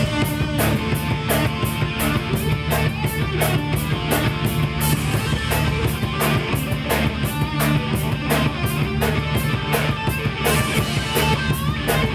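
Rock band playing an instrumental break: electric guitar over bass and a steady drum beat, with no singing.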